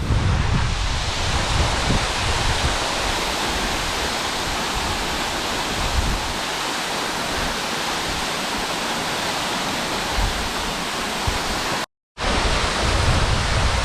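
Waterfall rushing steadily: a dense, even roar of falling water. The sound cuts out completely for a moment about two seconds before the end.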